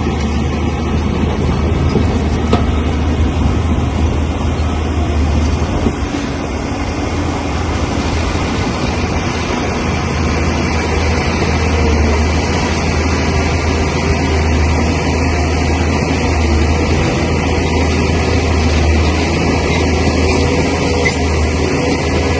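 Heavy diesel engine of a bulldozer running steadily, with a brief dip in its low hum about six seconds in.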